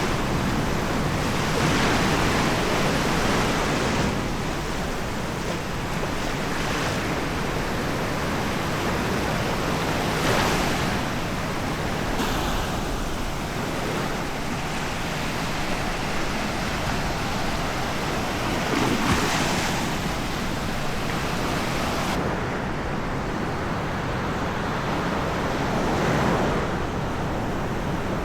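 Surf washing onto a sandy beach, a steady wash of noise that swells every several seconds as waves break, with some wind.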